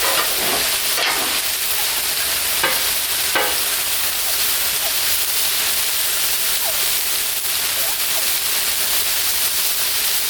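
Potato wedges, broccoli and carrots sizzling steadily in oil and butter on a Blackstone flat-top griddle at medium-high heat, with a few short clacks in the first four seconds.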